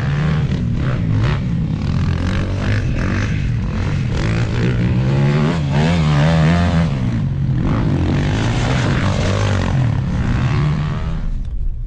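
Dirt bike engine running, its pitch rising and falling with the throttle about midway.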